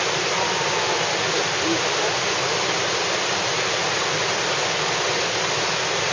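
Steady rush of falling or fast-flowing water, a continuous even roar that cuts off abruptly at the end.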